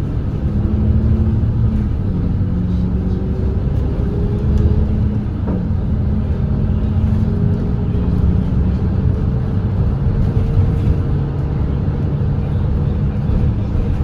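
Volvo B8RLE double-decker diesel bus engine running under way, with a steady low road rumble and an engine tone that shifts in pitch a few times.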